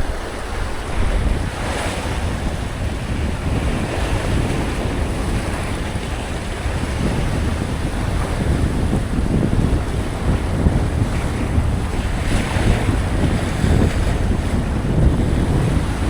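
Wind rumbling on the microphone over the wash of sea waves, with a couple of louder surges.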